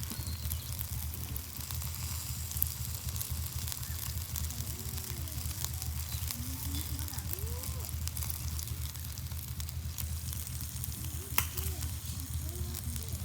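Food sizzling as it cooks: a fine steady crackle over a constant low hum, with a sharper click about two and a half seconds in and another near eleven seconds.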